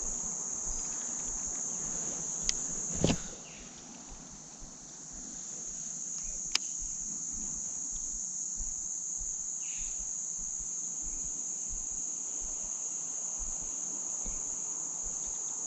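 Insect chorus singing as one steady high-pitched drone that dips briefly about four seconds in. A few sharp clicks sound over it, the loudest about three seconds in.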